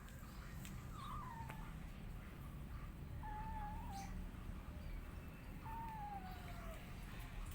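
Cat meowing three times, short high calls spaced a couple of seconds apart, the last one falling in pitch.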